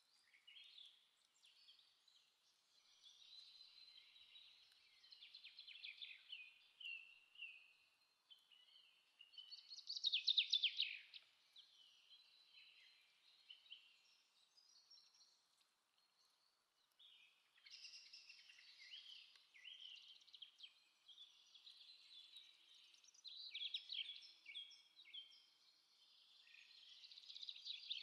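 Faint birdsong: small birds chirping and singing in irregular high-pitched phrases, with a louder burst of rapid chirps about ten seconds in.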